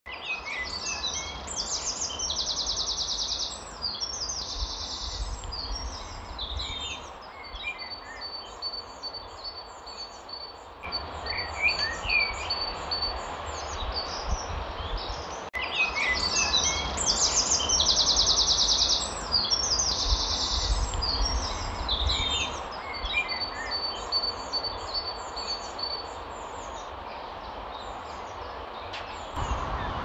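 Several songbirds singing and chirping, with a buzzy rapid trill and a long run of evenly repeated high notes. The same stretch of birdsong repeats about halfway through, a looped nature recording.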